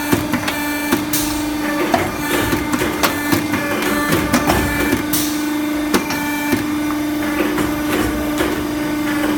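CNC tube bending machine running: a steady hum with frequent, irregular clicks and knocks.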